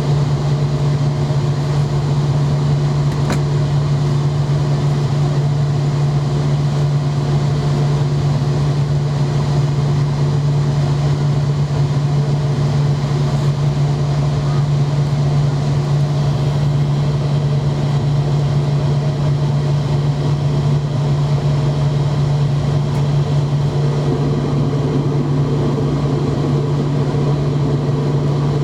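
Steady interior drone of a McDonnell Douglas MD-90 on the ground, engines and air-conditioning running at a constant level under a strong low hum.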